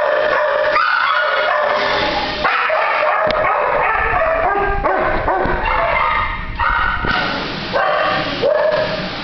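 Many kennelled shelter dogs barking, yipping and whining at once, a loud continuous din of overlapping calls.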